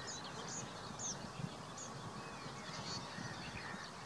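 Birdsong ambience: short high calls from birds in the background, irregularly spaced, over a steady outdoor hiss.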